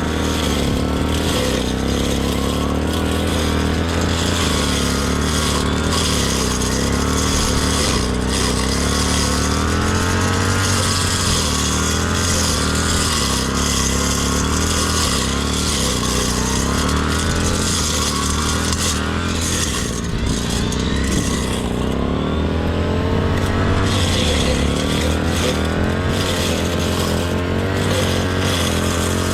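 Brush cutter engine running steadily at high speed while cutting grass, its pitch rising and dipping slightly with the load.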